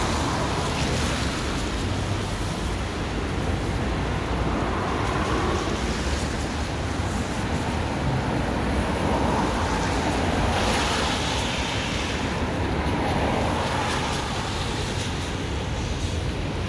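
Steady roar of road traffic on wet streets, with tyre hiss swelling louder about ten seconds in as a vehicle passes.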